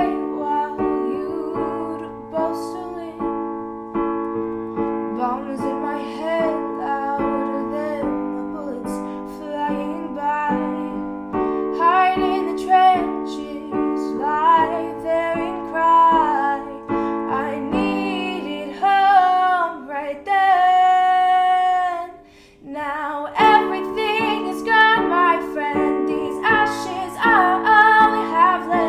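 A woman singing with piano accompaniment: sustained piano chords under a sung melody. About twenty seconds in she holds one long note with vibrato, and the music drops away briefly just after it.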